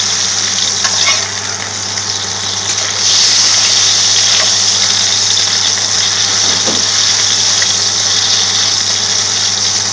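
Shami kebab patties shallow-frying in hot oil in a pan: a steady, dense sizzle that gets louder about three seconds in, with a few faint knocks as a slotted metal spatula presses on them. A steady low hum runs underneath.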